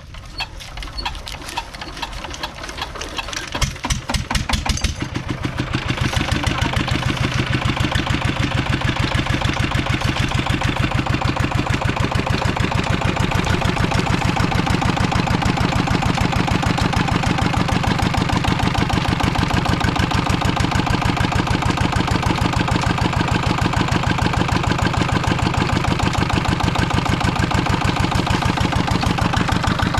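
An old desi diesel engine for a sugarcane crusher being started: for about five seconds it gives uneven knocks that come faster and faster as it catches. It then settles into a steady, fast, even running beat.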